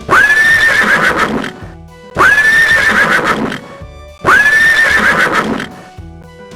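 A horse whinnying three times, the same neigh sound effect repeated about two seconds apart, each call rising and then wavering. Quiet background music plays underneath.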